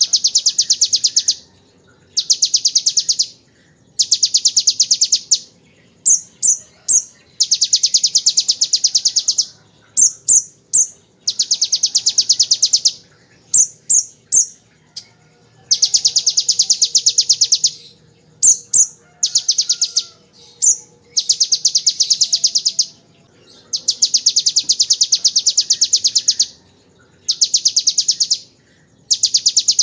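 Van Hasselt's sunbird (kolibri ninja) singing loud, very rapid machine-gun trills copied from the bar-winged prinia (ciblek), in repeated bursts of one to two seconds with short high chips in the gaps.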